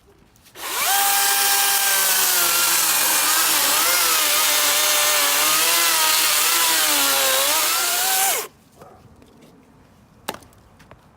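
DeWalt FlexVolt 60V brushless cordless chainsaw spinning up and cutting into wet, green camphor wood for about eight seconds. Its motor whine dips and wavers as the chain is loaded, without bogging down, then stops suddenly.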